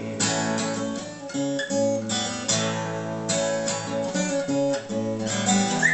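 Acoustic guitar strummed in steady chords, an instrumental passage between sung lines of a gentle ballad.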